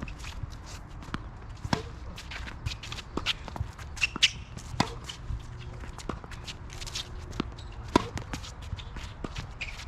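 Tennis play: sharp ball strikes and bounces every second or so, among players' shoes shuffling and scuffing on the court.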